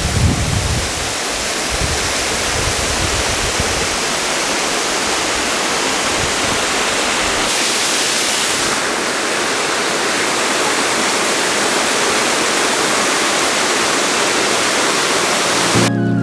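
Waterfall running: a loud, steady rush of falling water. A few low bumps come in the first few seconds, and music begins right at the end.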